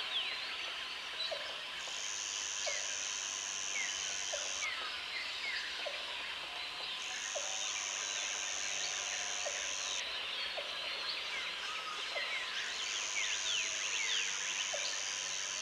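Tropical jungle ambience: a dense chorus of insects and birds with many short chirps and whistles. A high insect buzz switches on for about three seconds at a time, then off again. A short low call repeats roughly every one and a half seconds.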